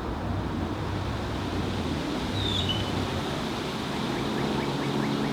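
Steady distant road-traffic rumble, with one short, high, falling call from an unseen bird about two and a half seconds in. A steady low hum joins near the end.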